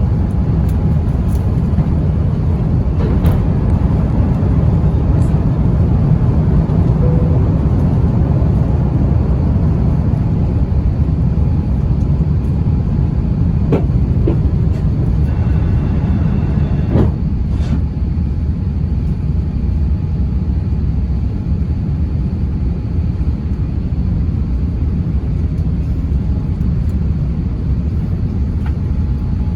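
Steady low rumble of engine and airflow noise inside an Airbus A350-900 airliner cabin, with a few faint clicks.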